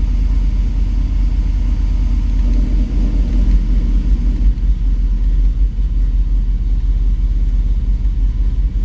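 Turbocharged GMC Yukon V8 running on its first startup, a loud uneven low rumble. It is running rough, which the owner puts down to the engine running very rich on its new tune.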